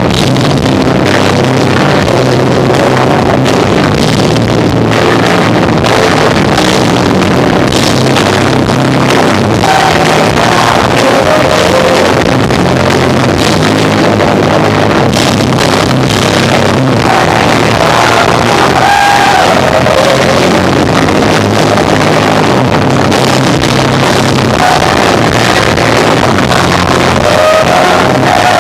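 Live rock band of electric guitar, bass and drums playing loudly, recorded so hot that the sound is smeared and distorted.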